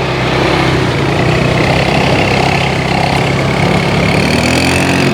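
Motor vehicle engine running steadily under road and wind noise, its note rising slightly near the end.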